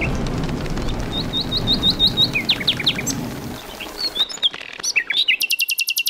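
Songbirds chirping and calling, some notes repeated quickly and some sweeping downward, over a steady background hiss that drops away about three and a half seconds in. Near the end comes a rapid, even trill of about a dozen notes that cuts off abruptly.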